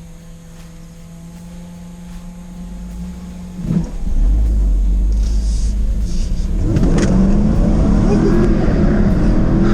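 A Jaguar F-Type's 5.0-litre supercharged V8 runs quietly at first, then about four seconds in it is opened up hard, and the car pulls away loudly. A little before the end the revs climb again under full acceleration.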